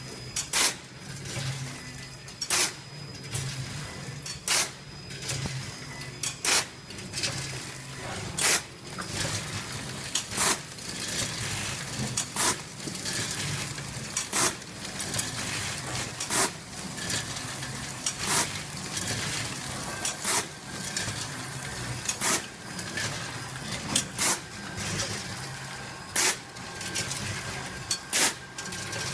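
Automatic popcorn packing machine running with a steady low hum and a loud sharp clack about every two seconds, a regular machine cycle, with lighter clicks between.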